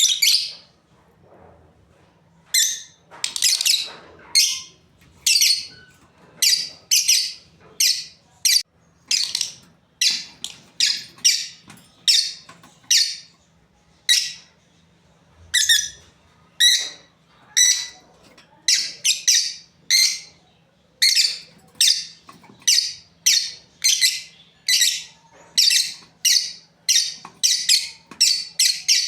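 Lovebirds calling: a long series of short, shrill chirps, about one or two a second, starting about two seconds in and coming faster toward the end.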